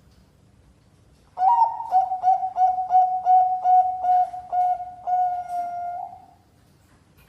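Bangkok-type zebra dove (perkutut) cooing. About a second and a half in, it gives a quick run of about ten short coos on one pitch, roughly three a second, ending in one longer held coo.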